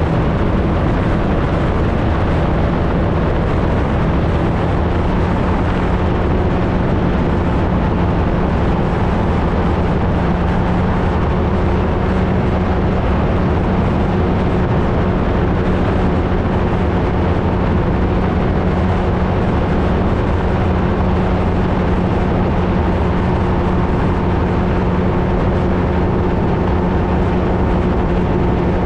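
Flightstar II ultralight's engine and propeller running steadily at a constant drone, with the pitch shifting slightly now and then, over heavy wind rush on the mounted microphone.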